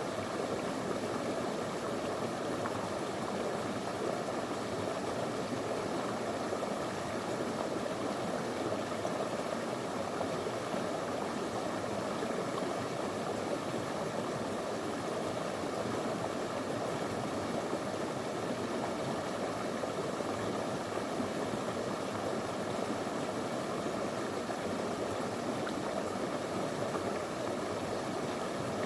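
Small shallow river flowing and burbling over stones, a steady rushing of water.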